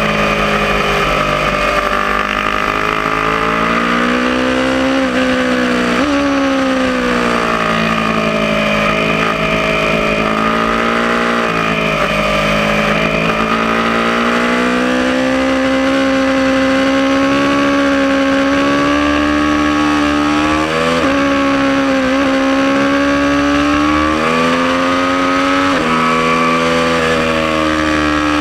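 Aprilia Tuono motorcycle engine running hard through a lap, its pitch climbing and falling with the throttle and dropping sharply at each of several gear changes.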